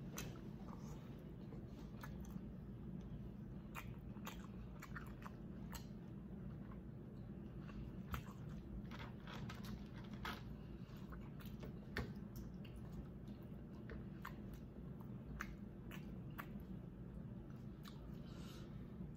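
Close-miked chewing and eating of seafood boil: irregular wet mouth clicks and smacks, a few sharper ones standing out, over a steady low hum.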